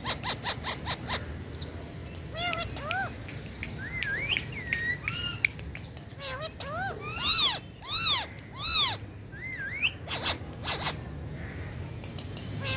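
Indian ringneck parakeet calling: a quick run of short clicking notes at the start, then scattered whistled chirps that rise and fall in pitch. About two thirds through come three loud arching squawks in a row.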